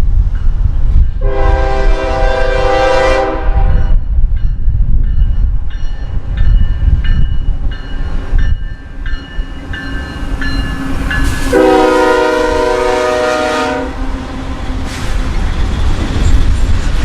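Locomotive air horn sounding two long blasts about nine seconds apart, over the heavy low rumble of a passing train.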